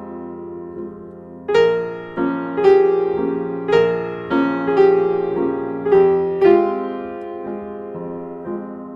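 Background piano music: a slow, gentle melody of struck notes and chords, each ringing and fading. A softer held passage opens it, and the notes come more often from about a second and a half in.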